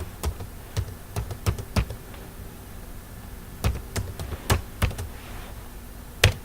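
Computer keyboard keystrokes typed in short bursts with a pause between them, and one sharper keystroke near the end.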